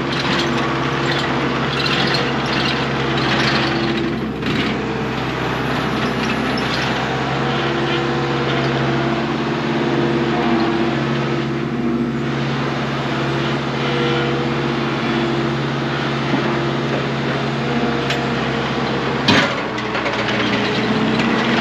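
A loading machine's engine runs steadily the whole time, the pitch holding fairly even. A single sharp clank of a metal impact sounds about 19 seconds in.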